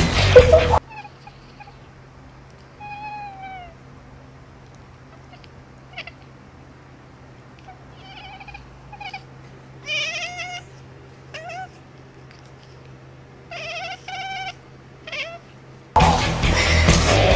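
A cat meowing repeatedly, about eight separate meows, some short and some drawn out with bending pitch, over a faint steady hum.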